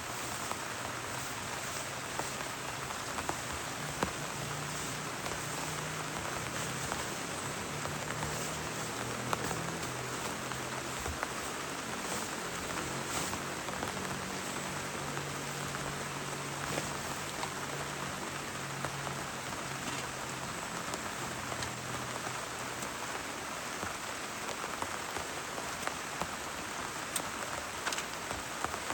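Steady heavy rain falling, with scattered sharper drop hits standing out from the even rush.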